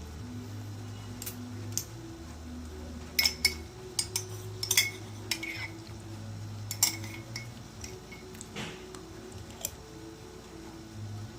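Spoon and fork clinking and scraping against a plate during a meal, in scattered sharp clinks with a busy cluster a few seconds in.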